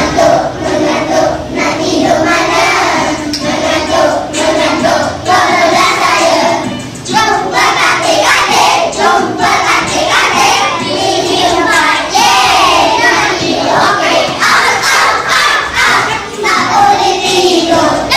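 A class of young children singing loudly together in a ragged, crowd-like chorus.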